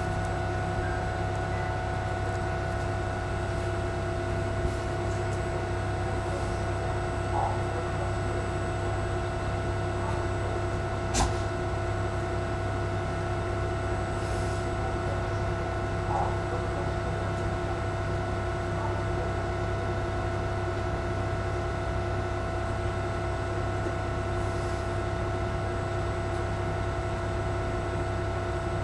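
Commuter train standing at a station with its onboard electrical and ventilation equipment humming steadily, several constant tones over a low rumble. A single sharp click comes about eleven seconds in, with a few faint knocks.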